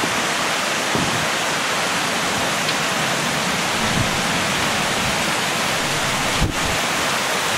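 Heavy rain pouring down in a thunderstorm, a steady, dense hiss.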